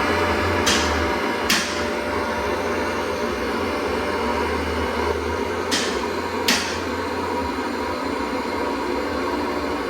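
Steady machine noise with a low hum, broken by sharp knocks about a second in, shortly after, and twice more past the middle.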